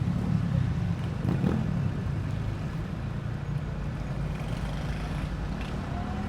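Low engine rumble of a passing motor, easing off over the first couple of seconds and then holding steady.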